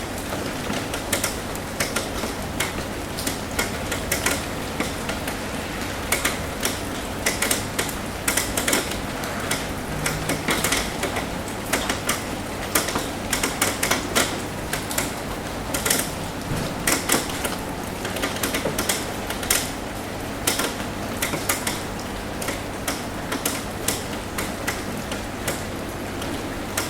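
Rain on a roof: many irregular sharp taps of single drops over a steady hiss of rainfall, with a faint low steady hum underneath.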